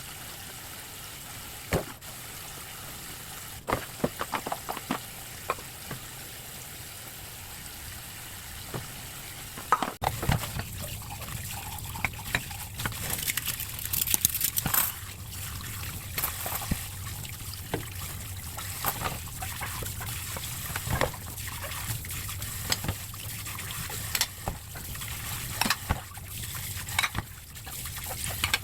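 Household kitchen sounds: water trickling or being poured, with scattered clicks and knocks of utensils and dishes, which get busier about a third of the way in.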